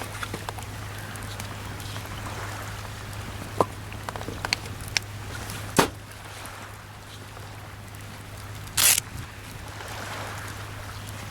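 Wood campfire crackling, with a few sharp pops between about three and six seconds in and a louder short burst near nine seconds, over a steady hiss of sea waves on the shore.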